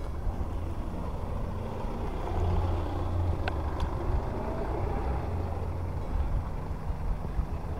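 Low, steady rumble of passing road traffic, swelling briefly, with a single sharp click partway through.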